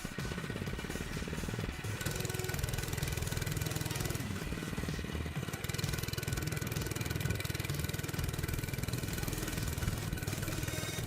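Minibike's small engine running as it is ridden, its pitch rising and falling a few times with the throttle.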